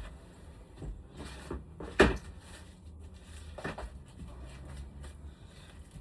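Four knocks of hard objects being handled, the loudest about two seconds in, over a faint low hum.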